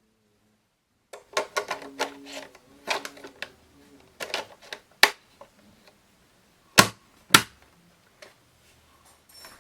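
Hard plastic parts being handled: a few seconds of clattering and rattling, then three sharp clicks.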